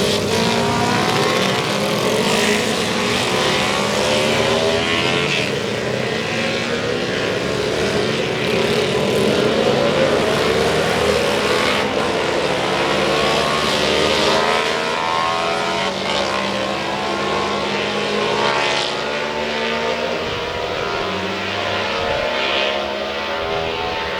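Road-racing motorcycle engines running on the circuit, a continuous engine note that rises and falls in pitch.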